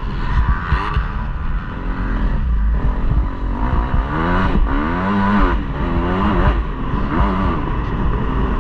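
KTM 250 motocross bike engine revving, its pitch rising and falling several times as the throttle opens and closes, over a constant low rumble.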